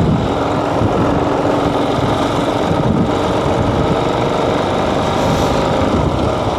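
Motorcycle engine running steadily under a constant rush of road and wind noise, heard from the rider's own bike.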